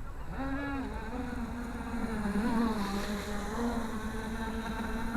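Radio-controlled model boat's electric motor whining as it runs across the water, its pitch wavering up and down with the throttle.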